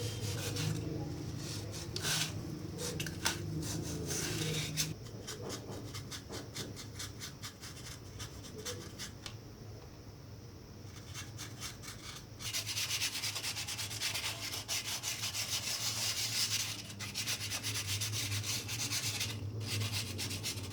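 Hand sanding of a Styrofoam craft piece: repeated rubbing strokes over a low steady hum, sparse in the middle and turning into a quick, steady run of strokes about twelve seconds in.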